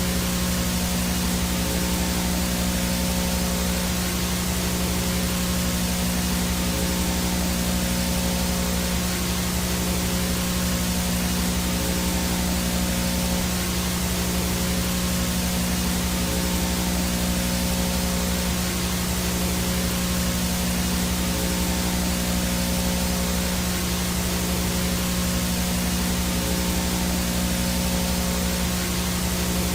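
Analog VHS no-signal static: a steady, even hiss with a low buzzing hum underneath and a faint high whine on top, unchanging throughout.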